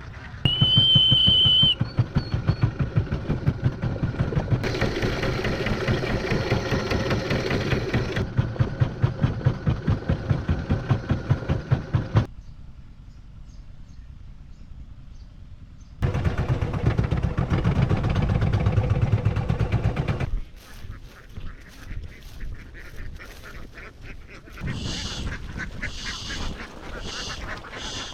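A large flock of domestic ducks quacking in a dense, continuous chorus, broken off abruptly several times. A brief, steady high tone sounds about a second in.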